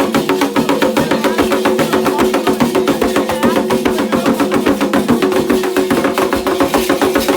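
Candomblé ceremonial music: hand drums beating a fast, steady rhythm over a sustained pitched layer.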